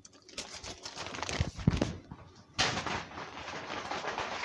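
Spoon and container handling while mixing homemade peanut butter: irregular knocks and clicks, then from about two and a half seconds a denser run of scraping with small clicks.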